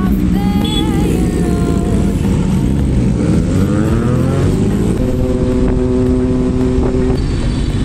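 KTM Duke 390's single-cylinder engine running under heavy wind noise while riding. The revs climb about three seconds in, then hold steady for a couple of seconds before dropping away near the end.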